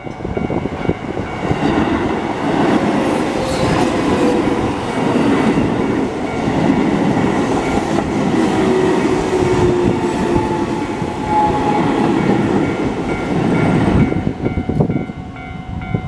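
Keio Line electric commuter train passing over a level crossing: wheels clattering on the rails, with the motors' whine gliding slowly in pitch. Under it the crossing's warning bell rings steadily, and both the bell and the train noise die away about 14 seconds in.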